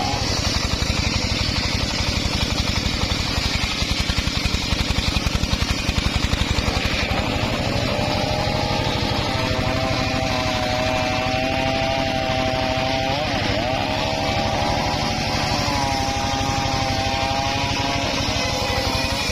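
Homemade engine-driven circular saw running continuously, the engine firing fast and steady under a whine whose pitch sags and recovers several times as the blade is loaded by the cut.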